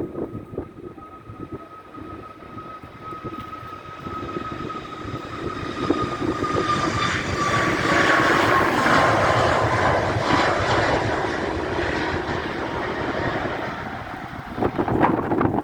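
Boeing 737 MAX 8's CFM LEAP-1B jet engines passing by: a steady whine that slides down in pitch as the jet goes past, with the engine noise swelling to its loudest about eight seconds in and then fading. Wind buffets the microphone near the start and end.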